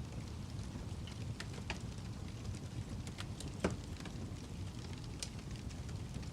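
Fire crackling in a fireplace: a steady low rumble of burning with scattered sharp pops and snaps, the loudest a little over halfway through.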